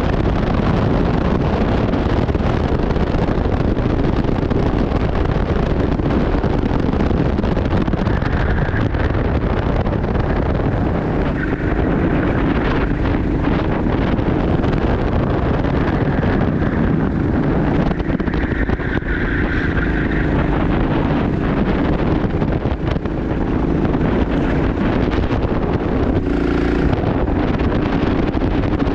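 Go-kart engine running at race pace on track, its pitch rising and falling through the corners, under heavy wind rumble on the microphone.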